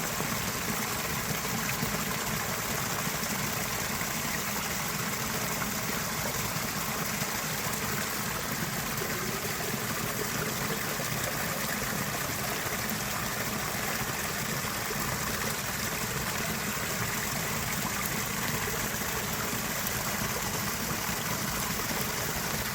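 Steady rushing of a river running high after heavy rain, an even unbroken roar of water.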